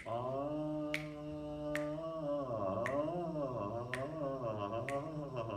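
A voice sings a phrase of the aria, holding one steady note for about two seconds before the line moves up and down. Sharp clicks about once a second keep the beat.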